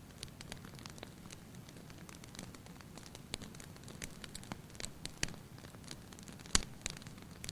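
Wood fire in a fireplace crackling: scattered sharp pops and snaps over a soft low hiss, with one louder pop near the end.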